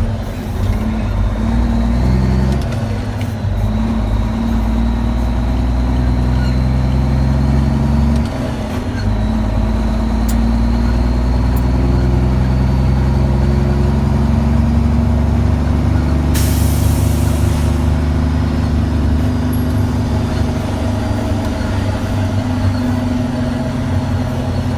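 Dump truck's diesel engine running as it drives, its note stepping and gliding up and down as the truck changes speed, with a dip about eight seconds in. A short hiss comes about two-thirds of the way through.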